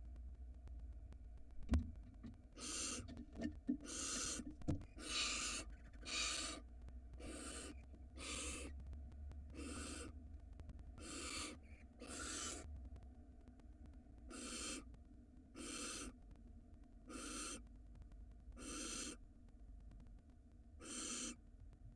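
Barn owls in a nest box giving a series of harsh hissing screeches, about fourteen half-second hisses, close together at first and then spreading out to one every second or two. A few sharp knocks sound in the first few seconds.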